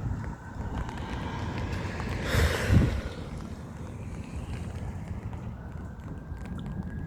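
Wind buffeting the microphone during a rainy thunderstorm, a steady low rumble. A short, louder rush comes about two and a half seconds in.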